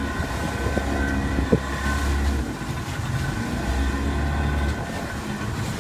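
Tour boat's engine running steadily under way, a low drone that swells and eases a few times.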